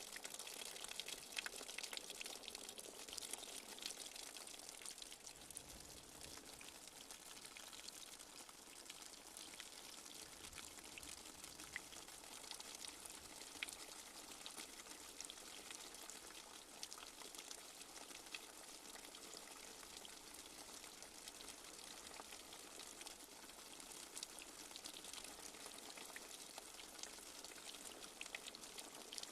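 Light rain falling steadily: an even hiss with many small drop ticks.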